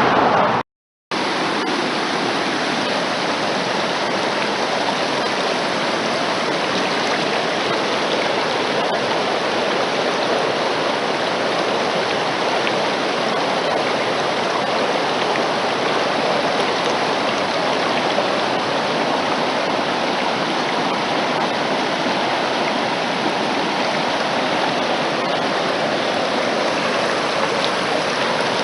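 Mountain stream rushing steadily, an even wash of moving water, with a brief dropout just after the start.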